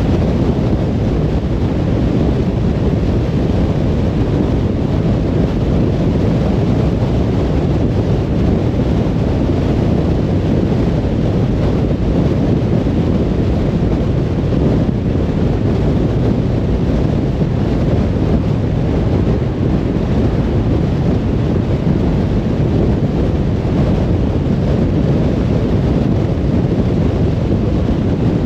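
Steady road noise of a car driving on a motorway: an even, low rumble of tyres and wind that neither rises nor falls.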